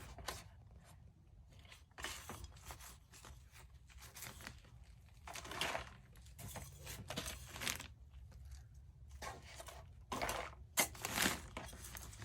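Irregular rustling and crunching of potting soil being poured and pressed into a flower pot, in uneven bursts, loudest near the end.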